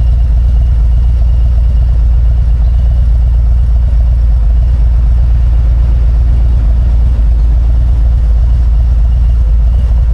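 Harley-Davidson Road Glide's V-twin engine running steadily with a loud, even low rumble.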